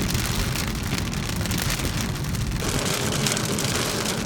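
Steady patter of rain with a low rumble underneath; the rumble drops away a little over halfway through.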